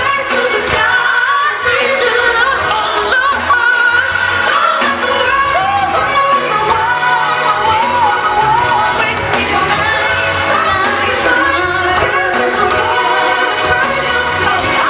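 Live gospel-pop song: a woman's lead vocal sliding through quick melismatic runs over a choir and backing band.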